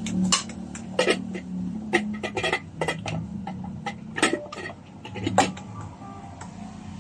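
Metal tools and parts being handled: a quick, irregular series of clinks and knocks, some with a short metallic ring.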